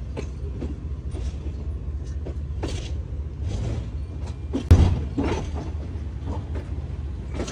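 Pakistan Railways passenger train moving slowly out of a station, heard from an open coach door: a steady low rumble with scattered clanks and one louder thump about five seconds in.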